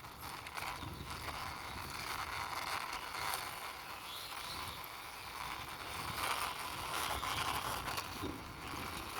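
A toy car pushed along by hand, its wheels rolling over the surface with a steady rolling noise and small clicks.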